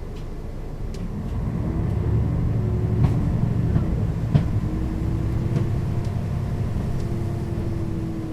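Mercedes-Benz O 530 G Citaro G articulated bus accelerating, its diesel engine and ZF automatic gearbox rising in pitch, with a break in the middle where the gearbox shifts up. A few sharp rattles or knocks from the body sound over it.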